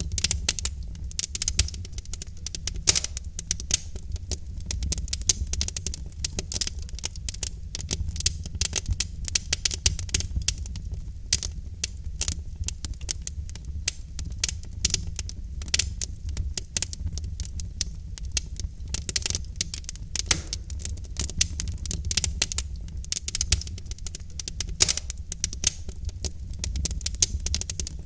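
Logs burning in a fireplace, crackling and popping in rapid, irregular clicks over a steady low rumble.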